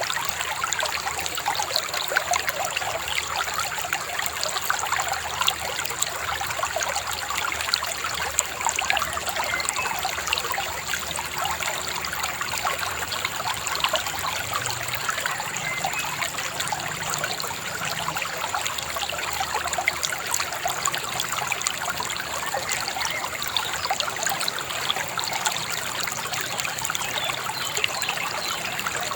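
Shallow river babbling steadily, a continuous rush of water full of small splashes and gurgles.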